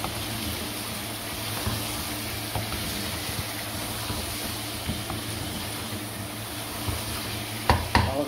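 Potatoes and chicken kofta frying in oil in a non-stick wok, sizzling steadily as a spatula stirs and scrapes through them, with two sharp knocks of the spatula near the end.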